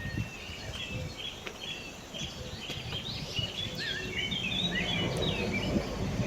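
Small birds chirping and calling over and over, with a low rumble that grows louder toward the end.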